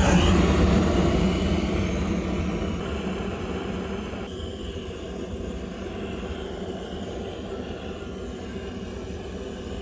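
Firewood fire burning in an ondol furnace (agungi). It starts with a sudden loud rush and settles over the first few seconds into a steady low rumble.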